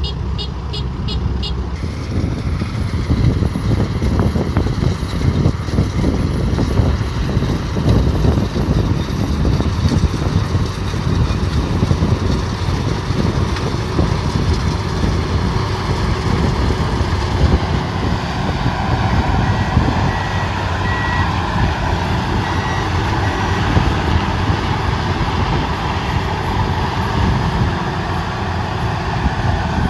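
Combine harvester running steadily under load, its engine and machinery making a dense continuous noise. A rapid beeping alarm stops about two seconds in, and faint short beeps come again about two-thirds of the way through.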